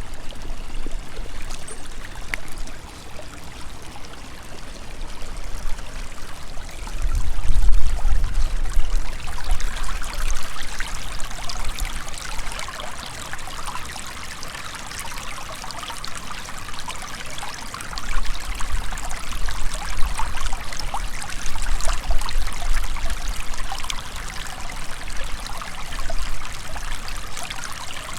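River water flowing and splashing over rocks as a steady rushing. Low rumbles swell in about seven seconds in and again from about eighteen seconds.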